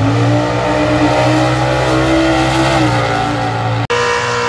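Drag car engine held at high revs with a steady note. About four seconds in it cuts abruptly to another engine running at a higher, steady pitch.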